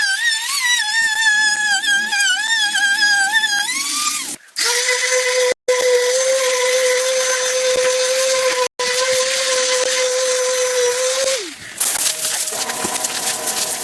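Power tool motors whining under load across several quick cuts: first a whine that wavers in pitch as the load changes, then a steady whine at constant pitch that drops away about eleven seconds in as the motor winds down.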